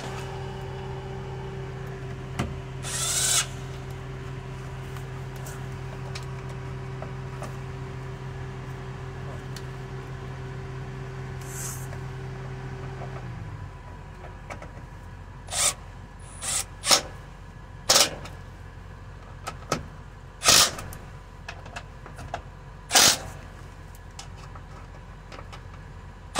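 Hand tools at work tightening the mounting screws of a fuel pump flow control module: scattered sharp metal clicks and clinks, most of them in the second half. Under them, a steady machine hum cuts off about halfway through.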